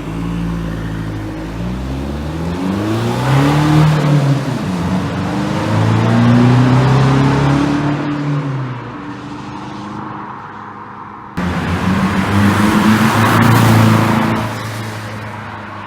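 Straight-piped Vauxhall Vectra C 1.9 CDTi four-cylinder turbodiesel, with a 3-inch straight-through exhaust from the pre-cat back, accelerating hard: the exhaust note rises in pitch and falls away in several loud surges. A sudden cut a little past halfway starts a second loud run that fades near the end.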